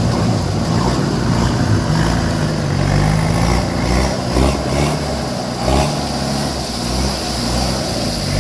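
Off-road 4x4 vehicle's engine running and revving, rising and falling in pitch, with a few knocks partway through.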